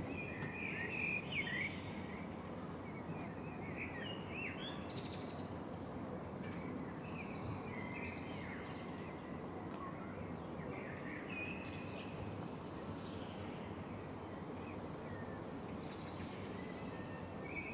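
Faint birdsong: many short chirps and whistled calls over a steady background hiss of outdoor ambience.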